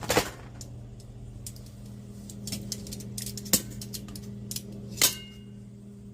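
Kitchen handling sounds: a few sharp knocks and clinks of dishes and utensils, the loudest about five seconds in with a brief ring, over a steady low hum.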